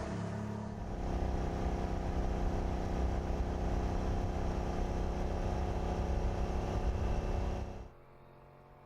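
A car engine running at a steady pitch, dropping off abruptly near the end to a much quieter engine sound.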